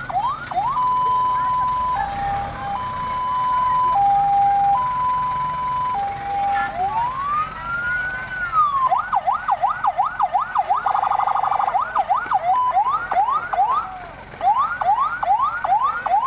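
Fire engine's electronic siren cycling through its tones: fast yelping sweeps, then a two-tone high-low pattern changing about once a second, a single slow wail rising and falling, and fast yelping again, with a brief rapid warble about two-thirds of the way in.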